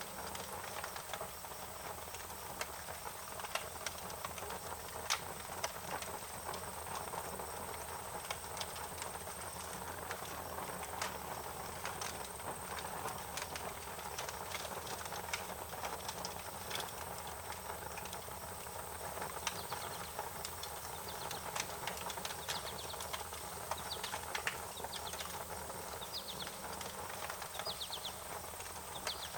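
Wood fire crackling, with irregular sharp pops and snaps over a steady hiss. A few short, high chirping trills come in near the end.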